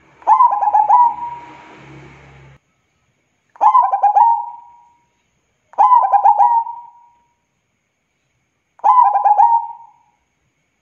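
Zebra dove (perkutut) singing four cooing phrases a few seconds apart. Each is a quick run of staccato coos ending in a drawn-out, fading note.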